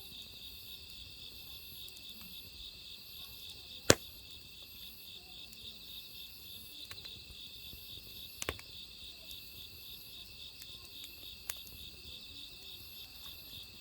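Crickets chirping in a steady, fast-pulsing trill, with a few sharp pops and cracks from burning firewood, the loudest about four seconds in.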